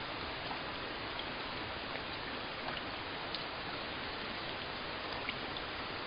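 Steady rain falling: an even hiss with a few individual drops ticking here and there.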